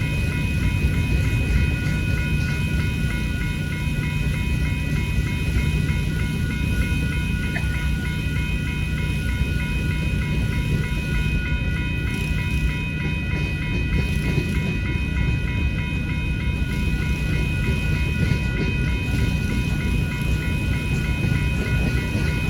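A freight train rolling through a railroad grade crossing with a steady low rumble, while the crossing bell rings continuously over it.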